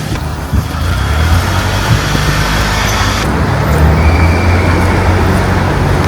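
Street traffic: a motor vehicle's engine running with a steady low rumble under road noise.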